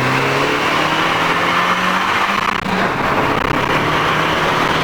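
Car accelerating hard from a standstill, the engine note rising briefly at the start and then held under load beneath a loud steady rush of wind and road noise.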